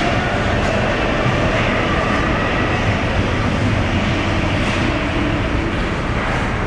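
Steady ice-arena din during a hockey game, with a few faint knocks.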